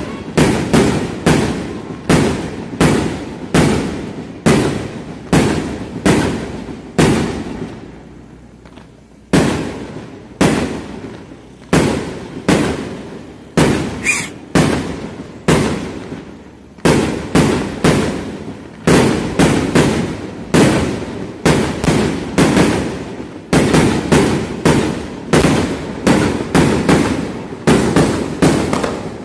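Fireworks going off in quick succession, about two bangs a second, each trailing off, with a short lull about eight seconds in. A brief high whistle sounds about fourteen seconds in.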